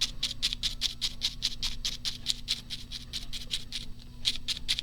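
A dry paintbrush dabbed quickly on paper in light, rapid taps, about seven a second.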